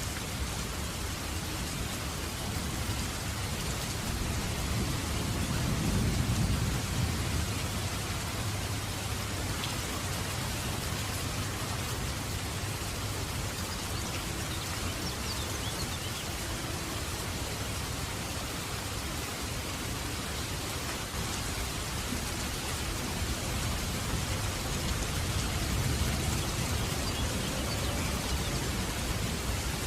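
Heavy rain falling steadily, a dense even patter of raindrops. A low rumble swells briefly about six seconds in and again near the end.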